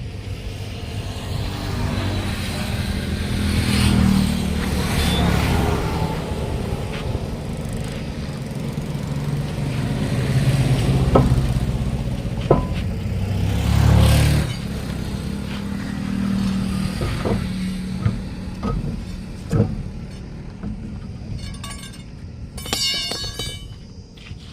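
Motor vehicle engine running, swelling and fading several times, with a few sharp metallic clicks and a short rapid rattle near the end.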